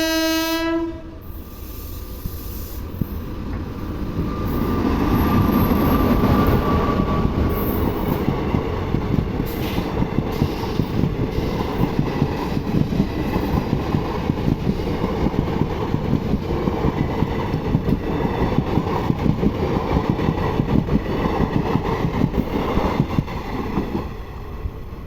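Train horn's sustained blast cutting off about a second in, then the express train running past: a steady rumble of the passing coaches with rapid clattering of wheels over the rails, easing off near the end.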